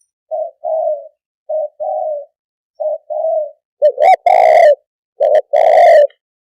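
Spotted dove cooing: repeated two-part coos, each a short note followed by a longer one, about one pair every second and a quarter. The first three pairs are soft, and from about four seconds in the coos become much louder and fuller.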